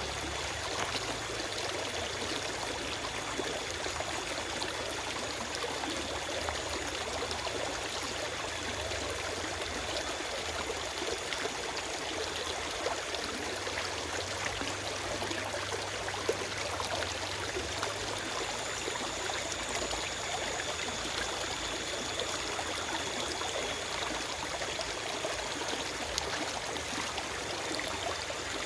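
Forest stream running steadily over rocks, a continuous rush and trickle of water.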